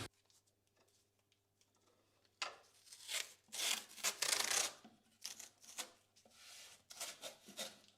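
Near silence, then from about two and a half seconds in, a run of short irregular scraping and rubbing noises with a few sharp clicks, as metal machine parts are handled and shifted.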